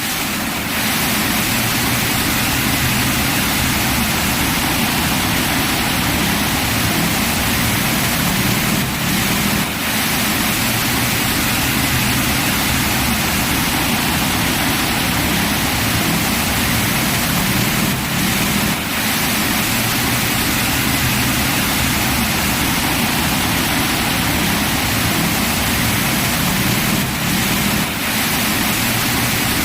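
Heavy rain pouring down steadily, a dense even hiss with a low rumble underneath.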